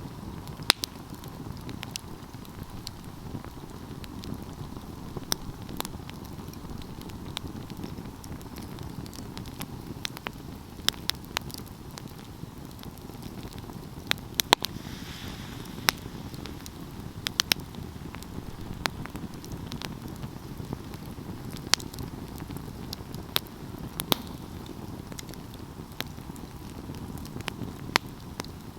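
Wood fire burning, pine logs crackling and popping with irregular sharp snaps over a steady low rush of flames.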